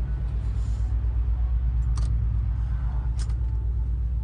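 A steady low rumble with a fast throb, broken by two short clicks about two and three seconds in.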